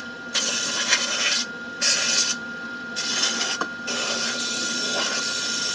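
Degreaser being applied to the plastic washing machine tank's seam surfaces: four bursts of hissing, the last and longest about two seconds.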